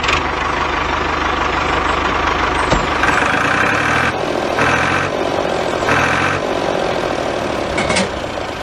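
Tractor engine running steadily with a low chugging pulse. Three short, louder tonal bursts sound over it, about three, four and a half and six seconds in.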